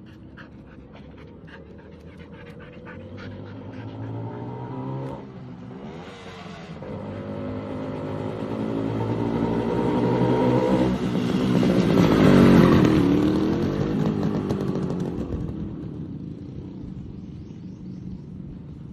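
Motorcycle engine approaching, passing close about twelve seconds in and then fading away, its pitch bending as it goes by.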